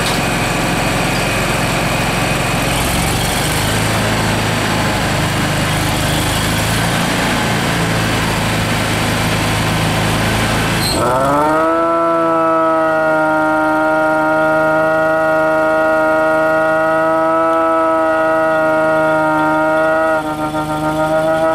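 Insulation blowing machine running, its engine humming under a loud even rush of air from the blowers. About halfway through, the rush cuts off and a loud siren-like whine rises in pitch and then holds steady over the engine.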